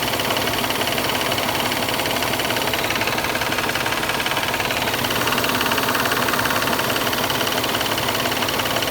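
Range Rover engine running with a fast, even knocking. The owner cannot place where the knock comes from, though he thinks it is on the right side.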